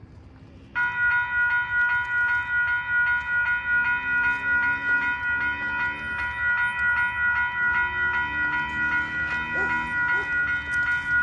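Railroad crossing warning bell starting up suddenly about a second in, then ringing on in a fast, even run of loud strikes. Fainter low tones sound underneath at times.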